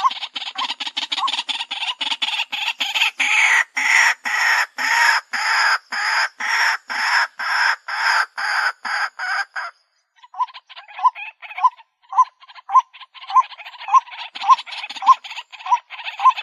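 White-breasted waterhen calling: a rapid, harsh series of repeated notes, about three a second, which breaks off briefly near ten seconds in. The calls then resume as a steadier run of clear, upward-inflected notes at about two a second.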